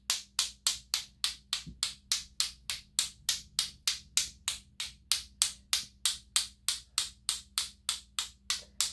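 A loaded paintbrush tapped steadily to flick paint spatter, giving sharp woody clicks about three and a half times a second.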